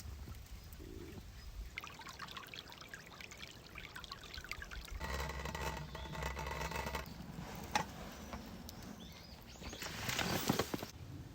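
Liquid being poured, with handling noises between pours and a louder rushing splash near the end.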